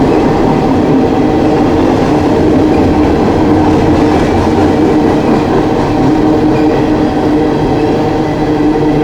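Long coal train's loaded hopper cars rolling steadily past, a loud continuous rumble of wheels on rail with a faint steady hum.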